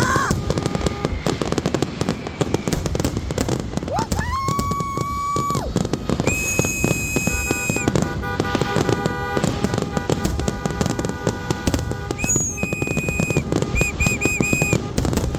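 Fireworks display with dense crackling and popping throughout. Several whistling fireworks give shrill held tones over it: one glides up and holds about four seconds in, and others whistle at higher pitches later on.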